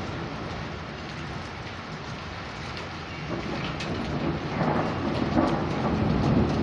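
Heavy rain falling steadily in a thunderstorm, with a roll of thunder that builds from about halfway in and grows louder toward the end.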